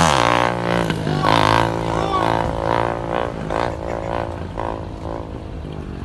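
Vehicle engine revs falling away at the start, then a steady droning engine note with music playing over it, fading slowly.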